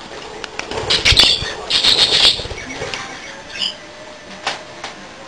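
Young budgerigars flapping their wings in short flights, with chirps, loudest in two bursts about one and two seconds in.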